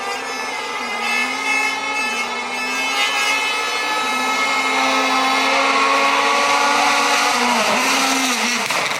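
A rally car's engine held at high revs as the car approaches and grows steadily louder, with brief dips in pitch at gear changes and lifts. Its note falls away near the end.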